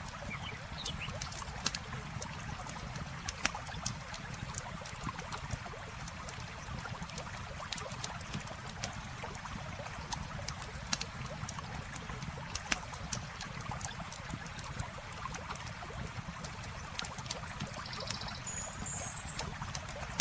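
Campfire crackling, with frequent sharp pops, over a steady rush of flowing river water. A brief high chirp sounds near the end.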